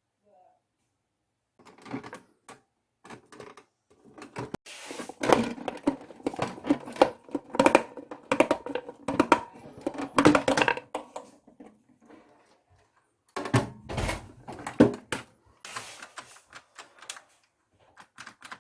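Rapid clicks and knocks of hard plastic parts of a toy washing machine being handled and worked on, in two busy runs with a short lull in the middle.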